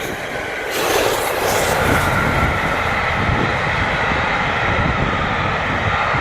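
Class 37 diesel locomotive engine sound running steadily, with a faint whistling tone above the engine noise that drifts slowly down. It gets louder about a second in.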